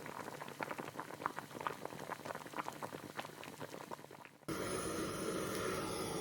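Food cooking in a pot or pan with a rapid, irregular crackle of bubbling. About four and a half seconds in, it cuts abruptly to a steadier hiss.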